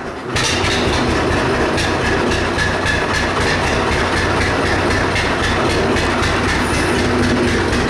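John Deere 60 two-cylinder tractor engine running, with a steady, even beat.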